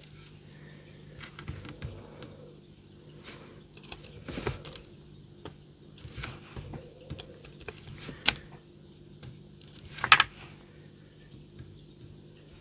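Scattered light taps and clicks of craft supplies, paint pots and brushes, being handled on a desk, with a sharper knock about eight seconds in and a louder one about ten seconds in, over a faint steady low hum.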